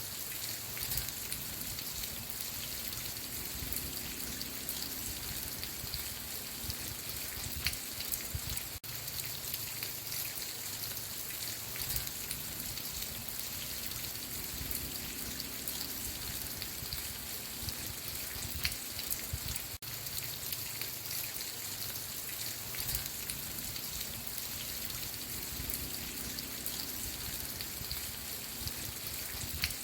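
Steady rain falling, with individual drops ticking on a surface; the sound dips very briefly twice.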